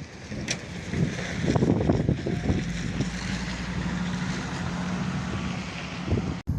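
Strong wind buffeting the microphone in gusts, with a motor vehicle's engine humming steadily through the middle. The sound cuts off abruptly near the end.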